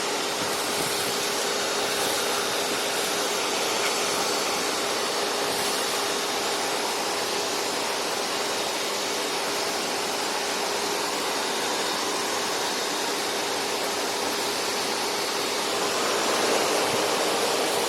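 Several vacuum cleaners, six in all, running together as one loud steady rushing roar with a faint steady whine.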